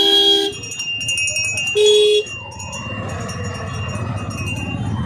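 Two short vehicle horn honks, one at the start and one about two seconds later, each a steady pitch lasting about half a second, over continuous street traffic noise.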